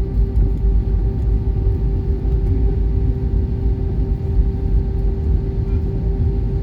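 Inside the cabin of a taxiing Airbus A320-232, its IAE V2500 engines at idle: a steady low rumble with a constant hum over it.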